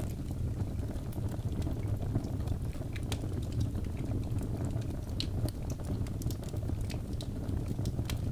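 Wood logs burning in a fireplace: a steady low rumble of the flames with scattered sharp crackles and pops, a few louder ones about three and five seconds in.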